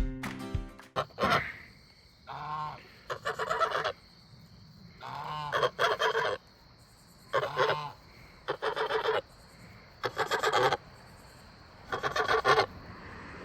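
Domestic goose honking loudly in about eight short bouts of rapid, harsh calls, each lasting under a second, with pauses between.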